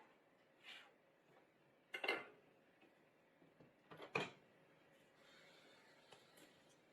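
Faint room tone broken by three short clatters, the second and third made of a few quick knocks: small hard objects being handled on a workbench.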